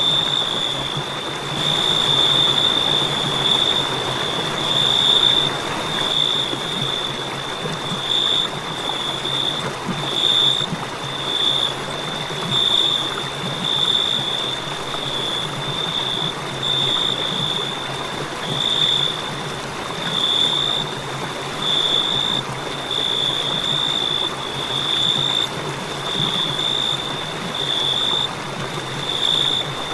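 Crickets chirping in a continuous high-pitched trill that swells and eases about once a second, over a steady hiss.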